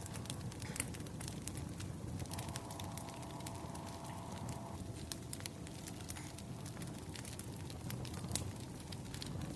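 Wood fire crackling: irregular sharp pops and snaps over a low steady rush of the flames.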